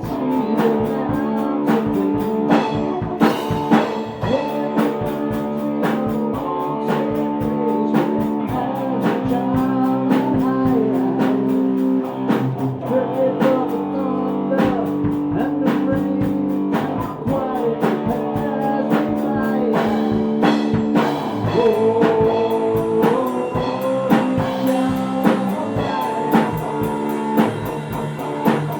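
A live rock band playing a song: guitars and drum kit with sung vocals.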